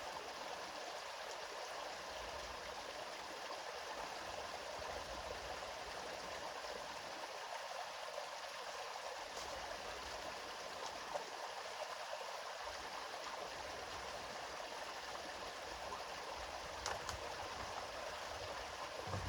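River water flowing steadily: an even, continuous rush of running water.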